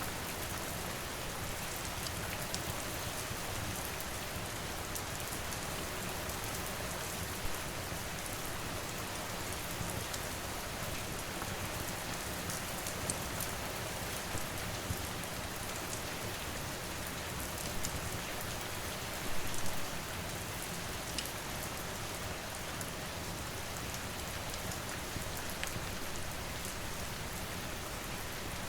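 Steady rain falling, dotted with scattered sharp ticks and a short burst of louder pops about two-thirds of the way through.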